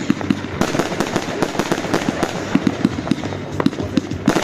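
Albert Feuerwerk 'King of Bling' firework battery firing: a dense run of rapid pops and crackles, with louder bursts about half a second in and again near the end.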